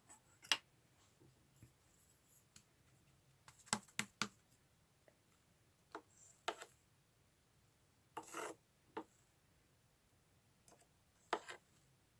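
Slime being handled and pressed, giving a dozen or so sharp, irregular clicks and pops with one longer crackle about eight seconds in, typical of air bubbles popping in a bubbly slime.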